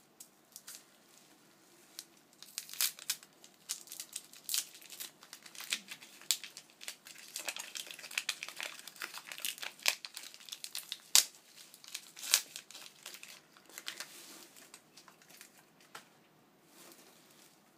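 Packaging wrap crinkling and tearing as an item is unwrapped by hand, a dense run of sharp crackles through most of the middle, quieter at the start and near the end.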